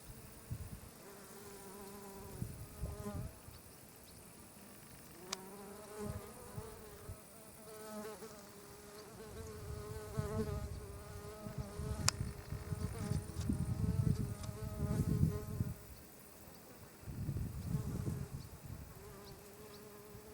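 Flying insects buzzing close by: a wavering buzz with overtones that fades in and out as the insects fly near and away. Louder low rumbling comes in around the middle and again near the end, with a few sharp clicks.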